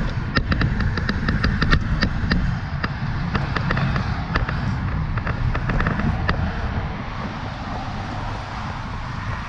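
Wind rumbling on the microphone and road noise from a moving bicycle. In the first few seconds there is a quick run of sharp ticks, several a second, which fades out about halfway through.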